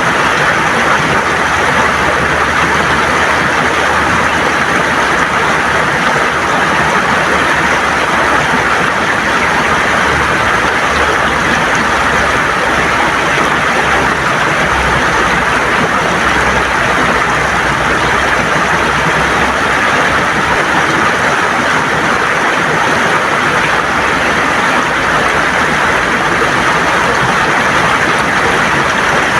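River water flowing and gurgling over smooth stones: a loud, steady rush.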